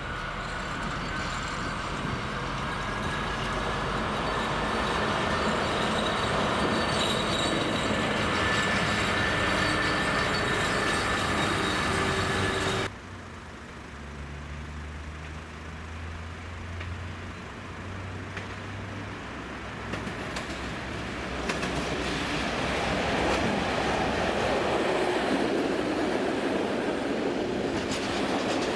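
Train running past with rail and wheel noise and a slowly rising whine. About halfway through the sound cuts off abruptly to a quieter low hum, then train running noise builds again.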